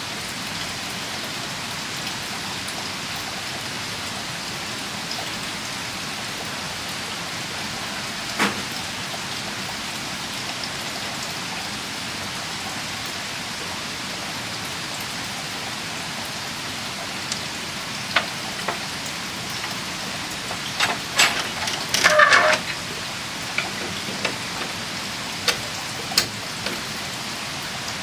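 Steady heavy rain falling. A few sharp clicks and knocks sound over it about eight seconds in and again in the second half, with a short cluster of louder knocks a little past the middle.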